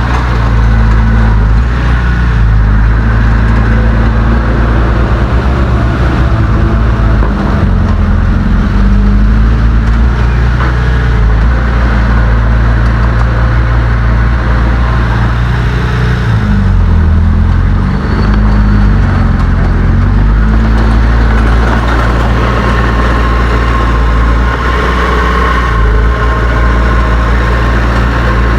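Heavy earthmoving machine's diesel engine running loud and steady, its pitch dropping and rising again a little past halfway through, with another shift near the end.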